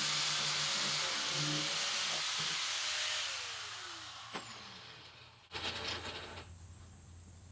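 A loud hissing rush from a machine that winds down, fading over a couple of seconds with falling whistling tones. It cuts off abruptly about five and a half seconds in, followed by a brief rattle and a low steady hum.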